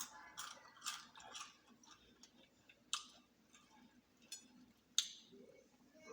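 A person biting and chewing crispy fried chicken close to the microphone: irregular sharp crunches, the loudest about three and five seconds in.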